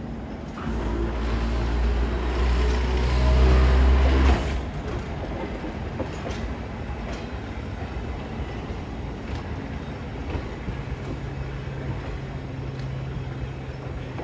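Electric car Kode 165 hauling a 5000-series electric train as it arrives at the platform. A loud low drone builds for a few seconds and cuts off suddenly, leaving quieter steady running noise, with a low hum coming in near the end.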